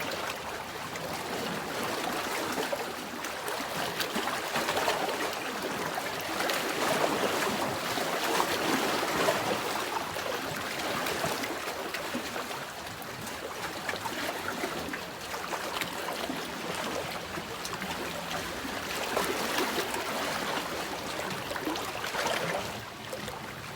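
Sea waves washing in: a continuous rush of water that swells and eases every few seconds.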